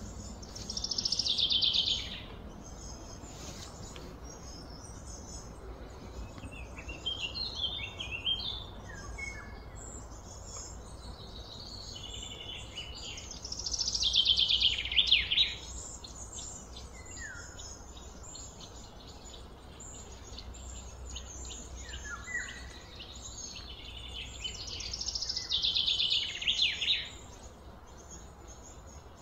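Birds calling: a loud trill falling in pitch, heard three times about twelve seconds apart, with short falling chirps in between, over a steady low background hum.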